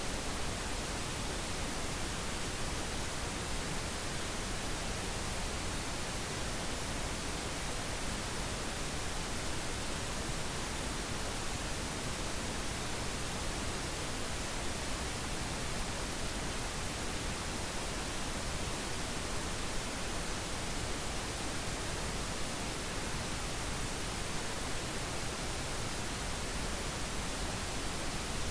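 Steady pink noise: an even, unchanging hiss spread across the whole range, with no events in it.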